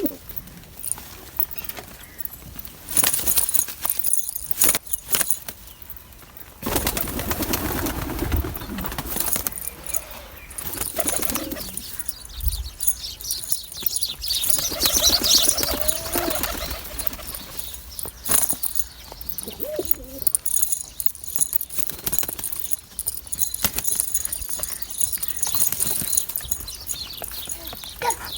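Roller pigeons flapping their wings in repeated rustling bursts, with a pigeon cooing now and then.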